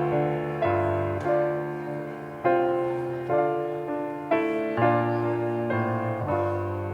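Piano playing slow sustained chords, each struck chord ringing and fading before the next.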